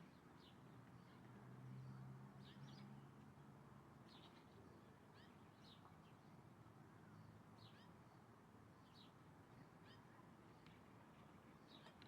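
Faint, scattered short high chirps from small birds, a dozen or so at irregular intervals, over a low hiss. A low steady hum fades out about three seconds in.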